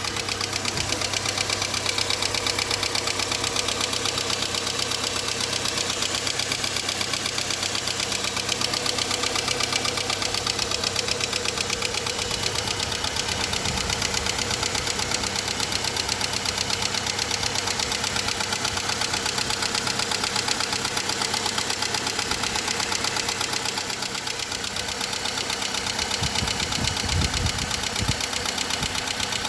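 Renault Laguna II's F4R 2.0 four-cylinder engine idling cold with a rapid, even ticking clatter. The clacking appears only on cold starts and fades within a minute or two of running; the owner wonders whether it comes from the camshaft phaser.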